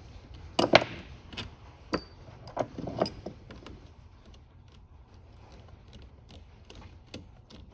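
Small metal parts and hand tools clinking and knocking as a carburetor is handled during disassembly: a run of sharp knocks in the first three seconds, then lighter scattered ticks.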